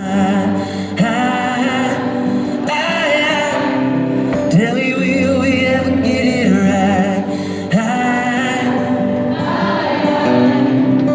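Music with singing, several voices heard together over a steady accompaniment.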